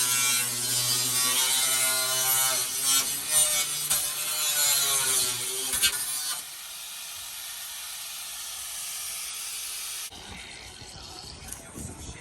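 A power cutting tool cutting through a car's body sheet metal. It runs loud with a wavering pitch for about six seconds, goes on more lightly, then stops abruptly about ten seconds in.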